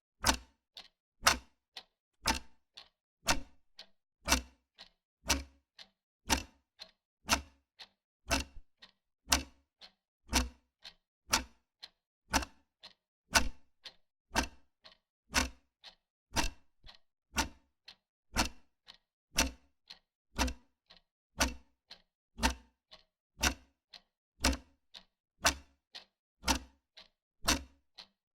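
Wall clock ticking steadily, about two ticks a second, a louder tick alternating with a softer one.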